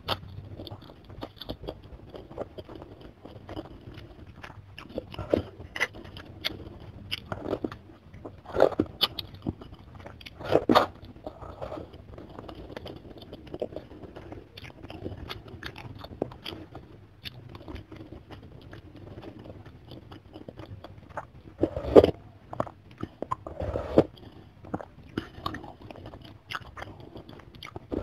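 Close-miked eating sounds: wet chewing and biting with crunchy bites, from a mouthful of chicken soto with chicken pieces and glass noodles. The sounds come as a string of short smacks and clicks, with a couple of louder ones late on.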